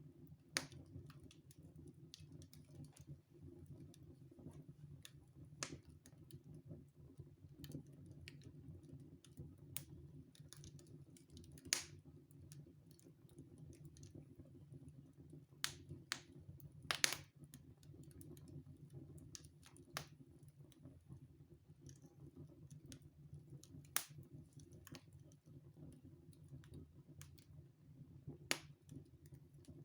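Wood fire crackling in a fireplace: irregular sharp pops and cracks every second or two, the loudest about 17 seconds in, over a faint steady low hum.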